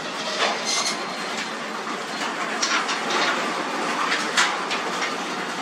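Garage door on newly replaced rollers rolling along its metal tracks: a steady rolling rattle with scattered light clicks.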